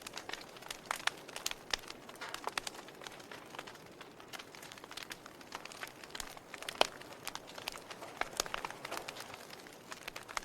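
Log fire in a fireplace crackling: irregular sharp pops and snaps over a steady hiss of burning wood, with one louder pop near the middle.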